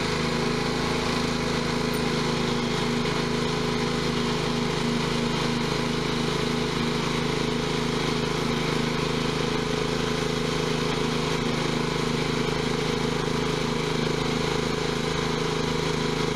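John Deere tractor engine running at a steady, unchanging speed.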